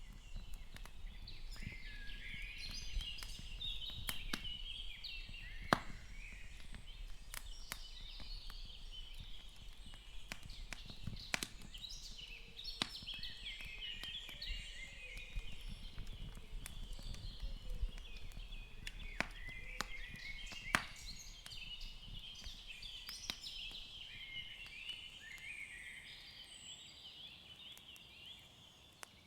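Recorded woodland ambience of small birds chirping and twittering continuously, with scattered sharp clicks and pops, fading out near the end.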